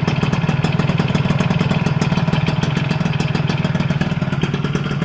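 Motorcycle engine running steadily through an AHM exhaust: a loud, even, rapid pulsing with no revving, in a sound check of the exhaust.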